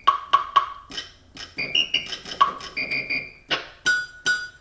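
Electronic keyboard in percussion mode, its keys setting off a quick, uneven string of short drum hits and pitched electronic blips, several a second.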